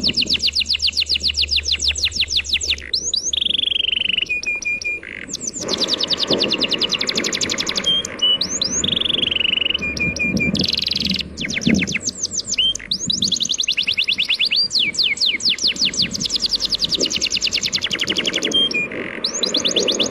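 A songbird singing loud, fast trills of quick downward-sweeping chirps, broken by a few short held whistles, over a steady low rush of sea waves.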